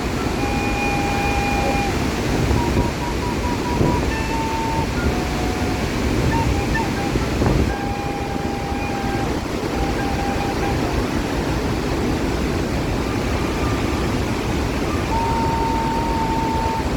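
Steady roar of a large waterfall. Now and then, clear held whistled notes at a few fixed pitches sound over it, some long and some in short runs.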